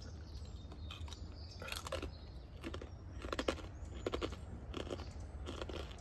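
Irregular crackling and rustling handling noises, with a few sharper crunches, over a steady low rumble.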